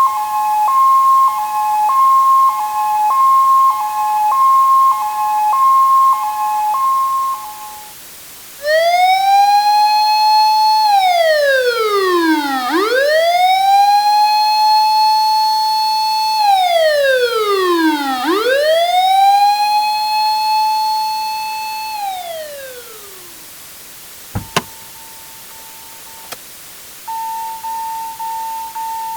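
Emergency-vehicle sirens. First a two-tone hi-lo siren alternates between two pitches for about seven seconds, then a wailing siren rises, holds and falls twice. Near the end come a sharp click, a faint steady tone, and then a pulsing electronic tone.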